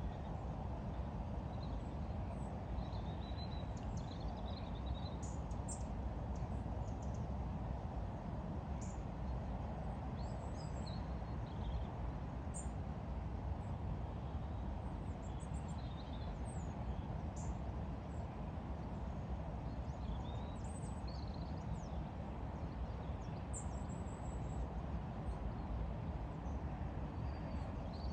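Small birds chirping now and then, in short high calls scattered through, over a steady low rumble of outdoor background noise.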